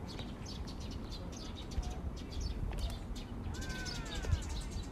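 Small birds chirping in quick repeated notes from the trees, with a longer wavering call about three and a half seconds in. A low rumble runs underneath.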